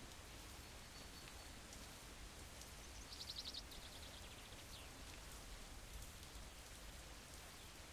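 Steady, faint rain noise, with a brief rapid high-pitched trill about three seconds in.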